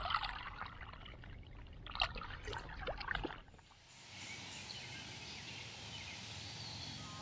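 Water splashing and dripping in short irregular bursts, then, after a brief drop about three and a half seconds in, a steady hiss of running creek water.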